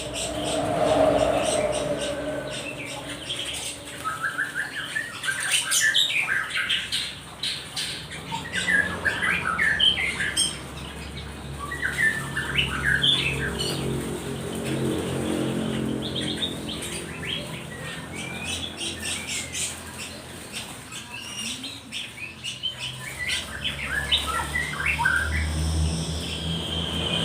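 Many small caught wild songbirds chirping and squawking in short, scattered calls, with a low hum in the middle.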